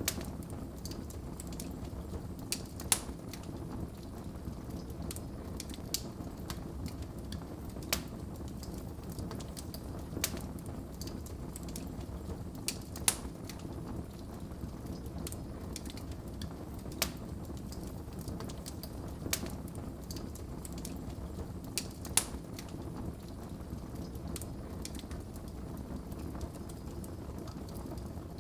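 Wood fire crackling in a fireplace: irregular sharp pops and snaps over a steady low rush of the flames, with a few louder pops.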